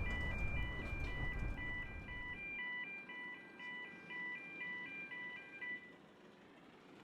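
A repeating electronic melody of clean beeping notes, like a ringtone or door-entry chime, that stops about six seconds in. Low rumbling noise fades out in the first couple of seconds.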